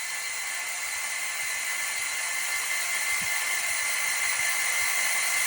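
Starter motor spinning a freshly rebuilt engine without it firing, a steady high whine over a hiss that grows slowly louder, building oil pressure to about 50 psi.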